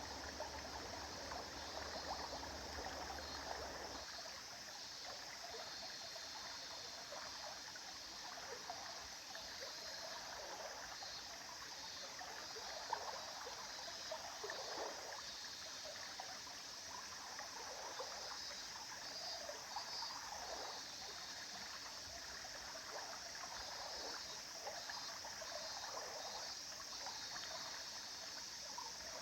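A river flowing steadily, with small shifting gurgles of water over stones.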